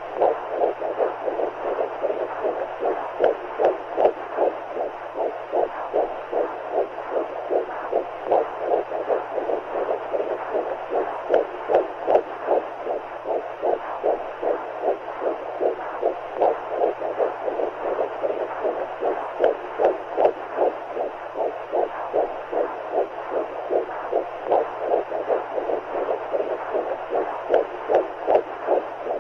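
Womb sound for soothing a baby: a steady muffled whooshing of fluid noise, pulsing with a heartbeat at about two beats a second, over a faint low hum.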